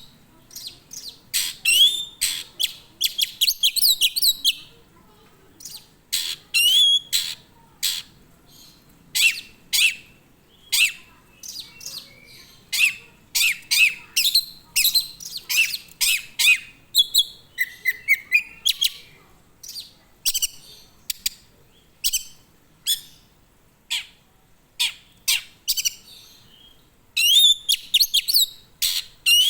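A songbird singing in repeated short bursts of quick, high chirps and trills separated by brief pauses.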